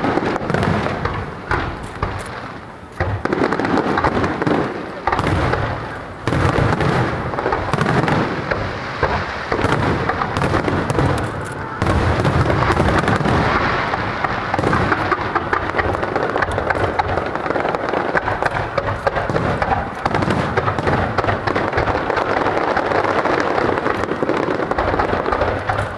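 Aerial fireworks bursting in a dense barrage of booms and crackling, with sudden louder salvos about 3, 6 and 12 seconds in.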